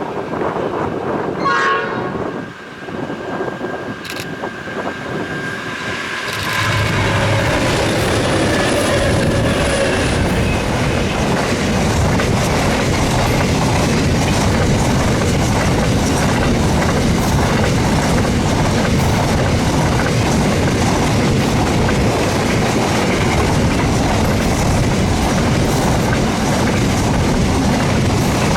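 A freight train's horn sounds as it approaches, holding one steady note, and its pitch drops as it goes by. About six seconds in, the train reaches the spot and passes close, with a loud, steady rumble and wheel clatter from the wagons that lasts to the end.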